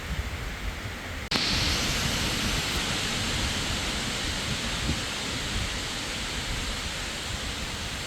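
Wind rumbling on the microphone over a steady hiss; a little over a second in the sound cuts abruptly to a louder, steady hiss of driving rain, with the wind still rumbling underneath.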